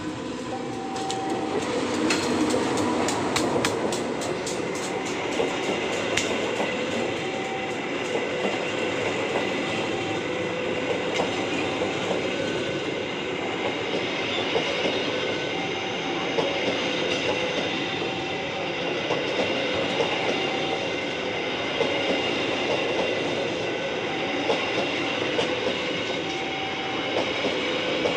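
A train passing close by: fast clickety-clack of wheels over rail joints in the first few seconds, then a steady rolling rumble of the cars with a high ringing tone from the wheels. A level-crossing warning alarm keeps sounding short beeps every couple of seconds.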